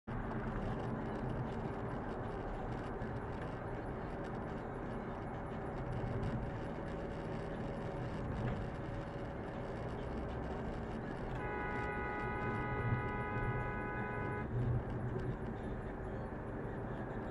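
Steady road and traffic noise of a car driving, with a car horn sounding one long steady blast of about three seconds, starting about two-thirds of the way in.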